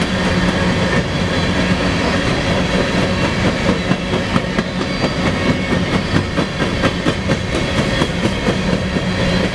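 Coal train's hopper cars rolling past close by: a steady loud rumble with rapid clicks of steel wheels over rail joints, the clicks coming thicker from about halfway through.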